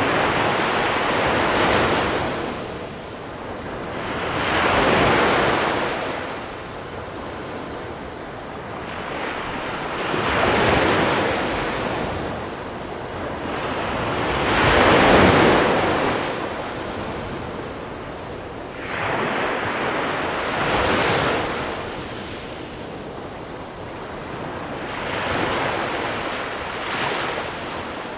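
Small sea waves breaking on a pebble beach and washing back over the stones, a new surge about every five seconds.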